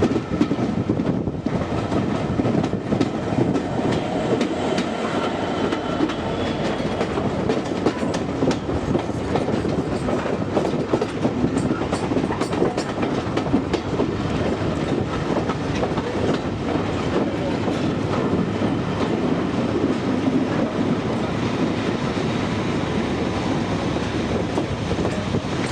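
Train running along the track, its wheels clicking over rail joints, with a busier run of clicks about halfway through.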